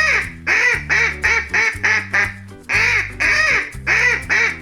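Duck quacking in a quick run of short quacks, about four a second, with a short break about halfway through, over background music with a steady bass line.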